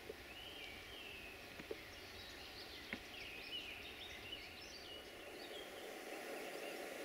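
Small birds singing: a string of short whistled, gliding phrases and chirps over a faint steady outdoor hiss, with a few soft clicks.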